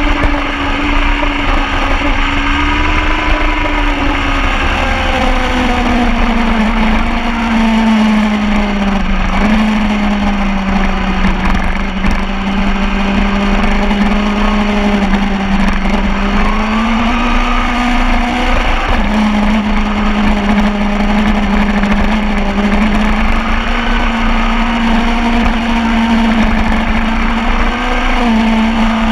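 Motorcycle engine running at speed with a heavy wind rumble. The engine note stays fairly steady, rising and falling slowly, with a couple of sudden jumps in pitch like gear changes.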